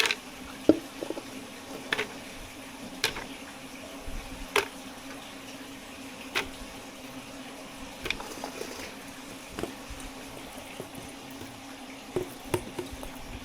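Kitchen work with liquid: sharp clinks and knocks, about one every second or two, over a steady low hum.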